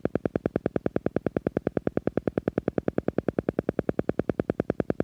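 Silva Method 'alpha' sound: a steady electronic pulsing, about ten even pulses a second, meant to guide the brain into a relaxed alpha state.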